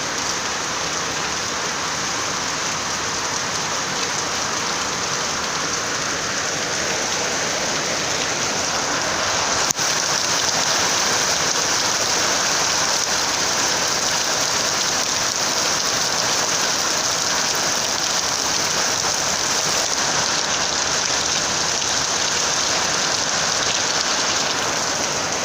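Steady heavy rain falling on a rooftop, a continuous dense hiss. A single short click comes about ten seconds in, after which the rain is a little louder.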